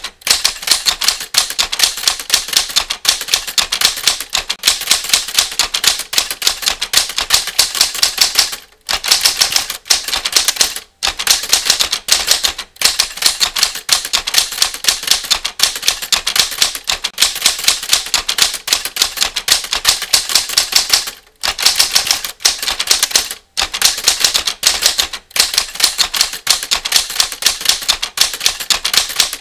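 Typewriter keys clacking in fast, continuous runs of keystrokes, broken by short pauses a few times.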